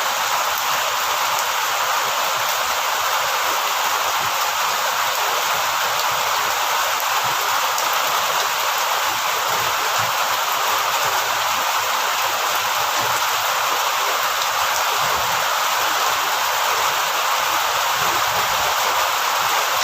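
Steady heavy rainfall: a dense, even hiss of rain that neither builds nor fades.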